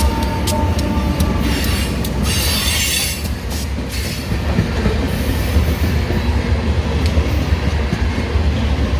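A train rolling past close by with a steady, heavy low rumble of wheels on rail. From about one and a half to four seconds in there is a stretch of high-pitched wheel noise.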